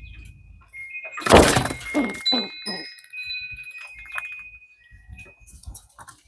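Metallic chimes ringing with long, steady tones. A loud, harsh crash-like burst comes about a second in, followed by a few shorter bursts.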